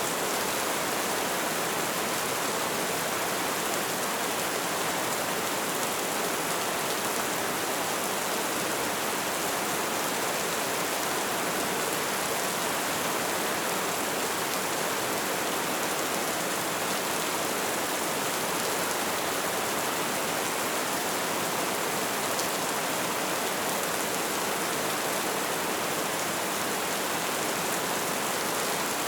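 Light rain falling steadily, an even hiss without a break or change in level.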